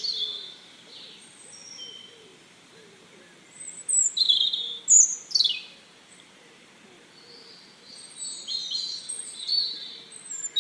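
Small birds chirping: quick high chirps and downward-sweeping calls clustered about four to five seconds in, then another run of chirps near the end, with quiet gaps between.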